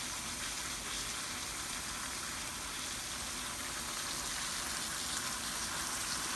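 Steady sizzling of sliced sausage with onions and bell peppers and of broccoli frying in oil in pans on a stovetop.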